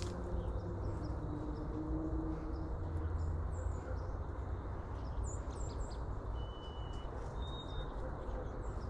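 Small birds chirping, with a cluster of quick high chirps about halfway through and two short whistled notes soon after, over a steady low rumble of wind on the microphone.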